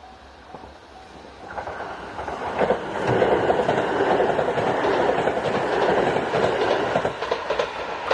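A train passing through a level crossing: the rush of wheels on rail builds from about a second and a half in and stays loud through the middle, with clacks of the wheels over rail joints. In the first second a short repeating warning-bell tone of the crossing can be heard.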